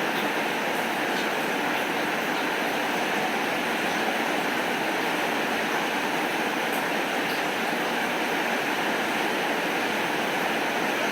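Heavy rain falling steadily, an even dense hiss with a few faint scattered ticks.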